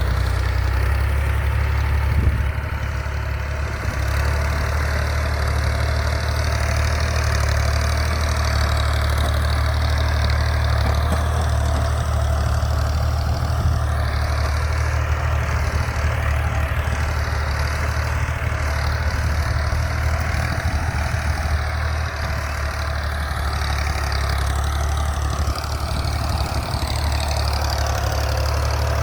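Al-Ghazi tractor's diesel engine running steadily while pulling a plough, with a brief louder jolt about two seconds in.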